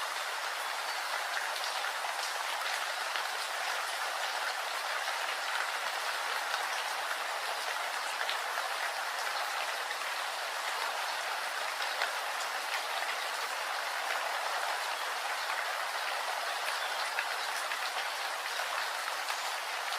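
Steady rainfall, an even hiss with many scattered drop ticks throughout.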